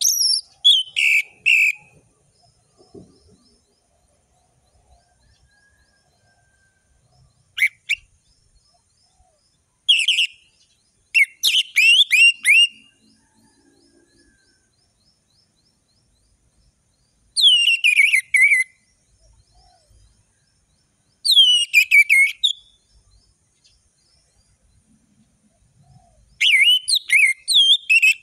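Orange-headed thrush (anis merah) singing loud, full song. About six phrases of rich whistled notes, many sliding down in pitch, each phrase a second or two long, are separated by pauses of several seconds.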